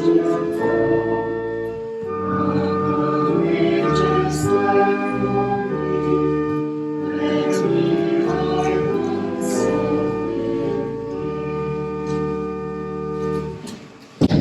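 Slow hymn music in long held chords over a low bass line, dying away near the end.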